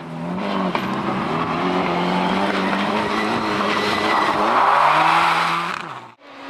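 Rally car engine running hard at high revs, its note holding steady, then dropping a step about four and a half seconds in as a swell of tyre noise builds. It cuts off abruptly near the end.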